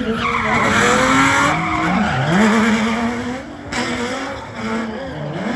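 Vehicle doing a burnout: the engine held at high revs, dropping briefly about two seconds in and again near the end, over the hiss and squeal of spinning rear tyres.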